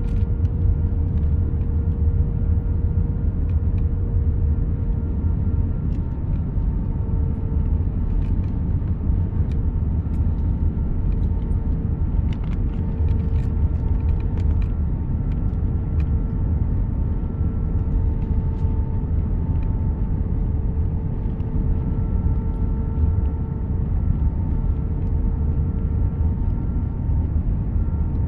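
Airbus A319 cabin noise during landing: a steady low rumble with a few held engine tones above it, and light rattling clicks scattered through the middle.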